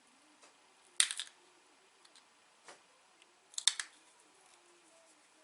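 Pressure flaking on a small dacite bird point: sharp clicks as small flakes pop off the stone edge, in two quick clusters about a second in and near the end, with a couple of fainter single clicks between.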